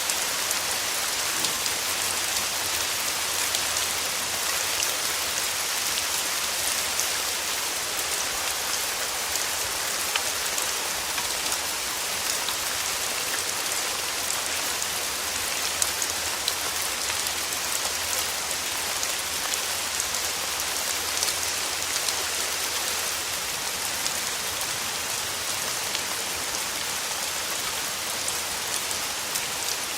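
Steady summer rain falling on a surface: an even, dense hiss, brightest in the high range, with countless small drop clicks scattered through it.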